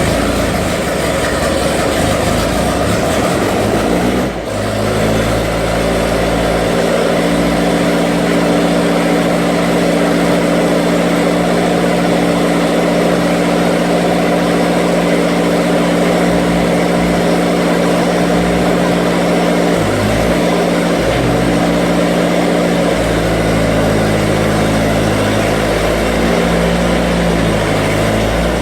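Skid steer engine running loud and steady, with a brief drop about four seconds in; the engine note then holds and shifts a few times later on as the machine works.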